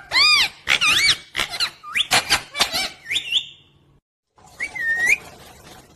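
Pet parrot giving a string of short, high, squeaky calls that rise and fall in pitch. They break off about four seconds in and are followed by one more call.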